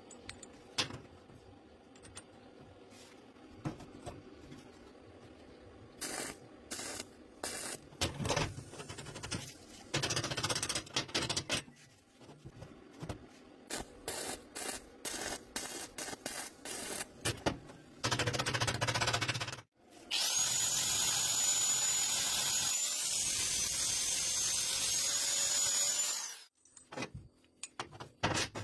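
A power tool working metal: short stop-start bursts and knocks, then a loud steady run of about six seconds with a high whine that cuts off suddenly.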